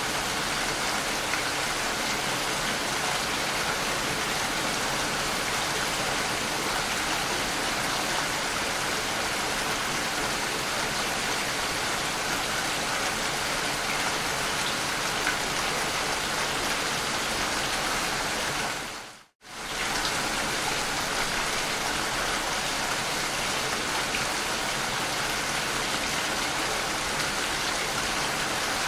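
Steady rain falling, an even hiss of drops. It briefly fades to near silence and back about two-thirds of the way through.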